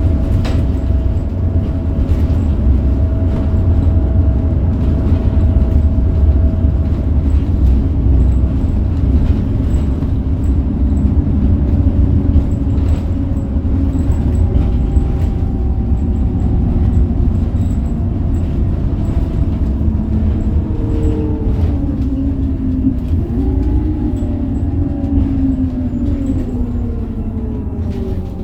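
Scania K270UB bus with its 9-litre Scania DC9 diesel and ZF Ecomat automatic gearbox, under way with a heavy, steady low rumble and a steady whine. In the last third the whining tones fall and waver in pitch and the sound eases slightly as the bus slows.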